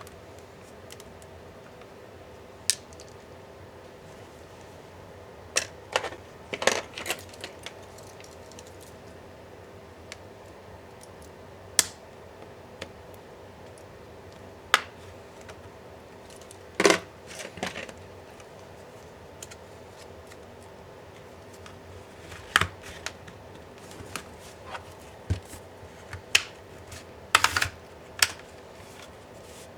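Scattered sharp clicks and taps of hand tools and small laptop parts being handled during a laptop teardown, some coming in quick clusters, over a faint steady hum.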